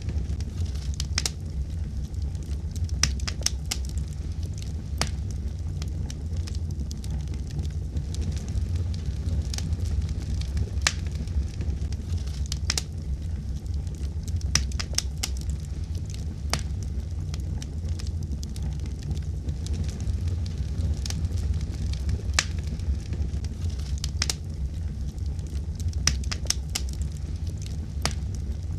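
Wood fire burning in a fireplace: a steady low rumble with sharp irregular crackles and pops every second or so.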